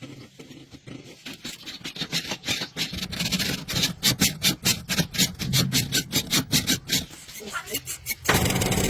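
Rapid rhythmic rasping strokes, several a second, growing louder over several seconds. Near the end, an engine suddenly starts running steadily and louder.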